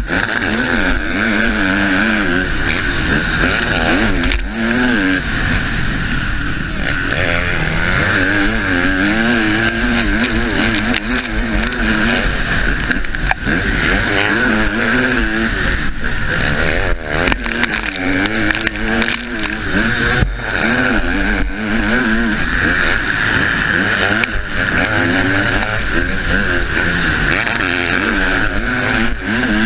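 Husqvarna motocross bike's engine revving hard and dropping back again and again as it is raced, heard from the rider's helmet, with steady wind rush and scattered knocks from the bike over bumps and landings.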